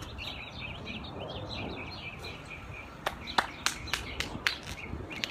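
Small birds chirping and twittering over a low rumble of wind on the microphone. From about three seconds in comes a run of sharp, irregular clicks or taps.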